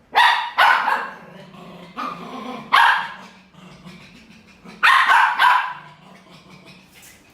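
A dog barking, seven loud barks in three short groups, with pauses between the groups.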